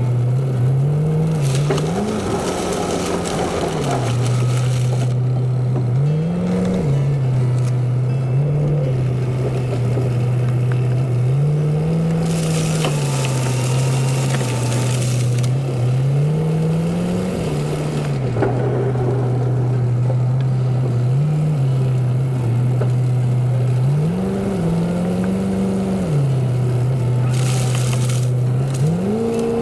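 Plow truck's engine running, its pitch rising and falling over and over as it speeds up and eases off. Several stretches of hissing scrape come from the plow and tyres working through wet slush and water.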